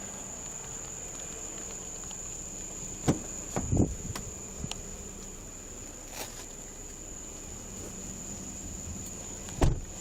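A continuous high-pitched insect trill, like crickets at night, with a few dull knocks and handling bumps about three seconds in, just after, and a louder one near the end.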